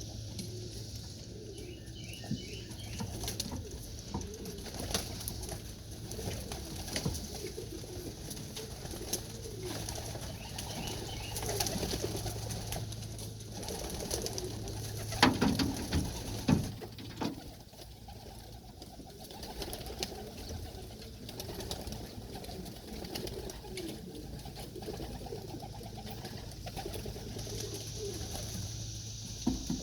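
Racing pigeons cooing in their loft, with wing flaps and scattered clicks, and a few louder knocks about halfway through.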